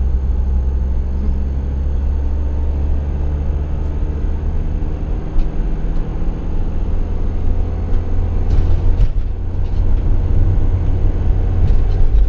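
Motorhome engine and road rumble heard from inside the cab while driving, a steady low drone, with a brief rise in wider road noise about eight and a half seconds in.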